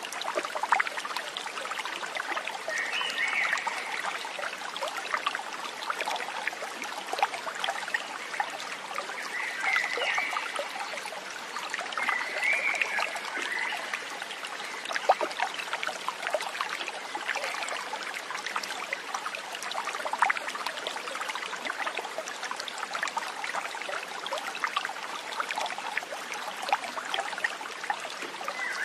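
A small stream trickling and splashing steadily. A few short, higher warbling calls come over it now and then.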